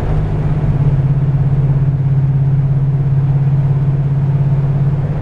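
1970 Chevrolet Chevelle SS's V8 running with a steady low drone at cruising speed through its 2.5-inch Magnaflow exhaust, heard from inside the cabin.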